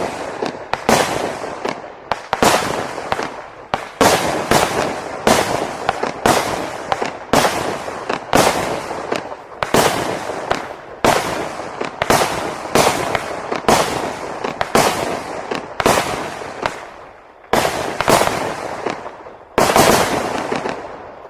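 A 24-shot consumer fireworks cake (Retro Vibe, CAT F2) firing its shots in quick succession, about two sharp reports a second, each followed by a fading tail. The last shot comes near the end.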